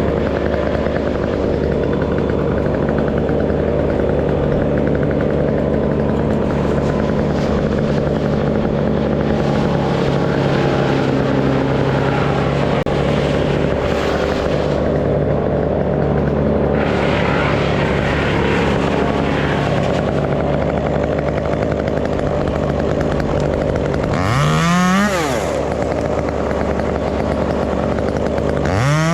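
Stihl 201 two-stroke top-handle chainsaw idling steadily, then revved up sharply once about 24 seconds in before dropping back to idle, and revved again near the end.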